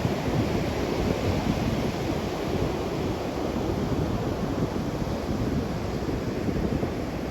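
Big, rough surf rolling in and breaking wave after wave, a steady dense rush, with wind buffeting the microphone.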